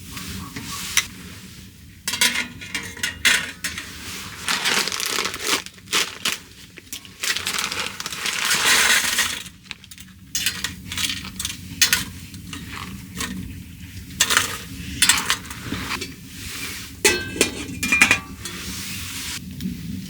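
Irregular clinks, knocks and rustling of objects being handled, with a longer rustle about eight to nine seconds in.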